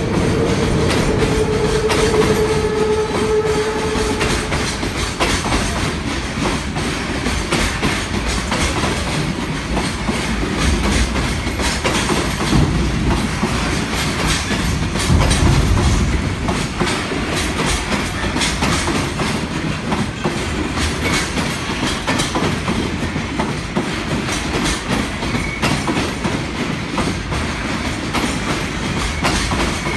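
Freight train running by, its wagons' wheels clicking steadily over the rail joints with a continuous rumble. A tone in the opening seconds fades out.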